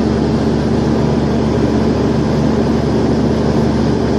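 Steady drone of a passenger aircraft's cabin in flight: engine hum and rushing airflow, even and unbroken, with a low steady tone under a wide hiss.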